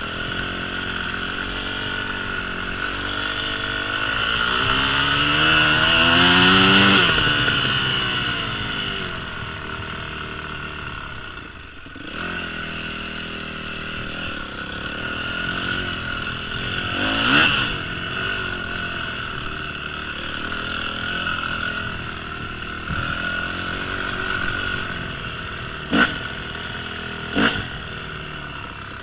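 Yamaha 250 YZF four-stroke dirt bike engine running under way, revving up to a peak about seven seconds in and then easing off, with another short rev later. Two sharp knocks about a second and a half apart near the end.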